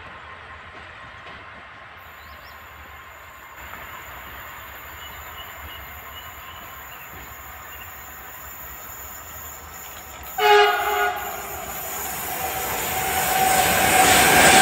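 Faint rumble of distant trains, then about ten seconds in a short, loud chord blast from an electric locomotive's horn, lasting under a second. It is followed by a rising rush of wheels and rail noise as a PKP Intercity express behind a Siemens Taurus EU44 "Husarz" locomotive approaches and passes close by.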